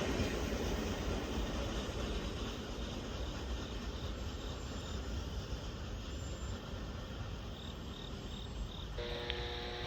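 Low rumble of a passing train fading away, with insects chirping in a short regular pulse. About nine seconds in, a radio starts sounding steady tones.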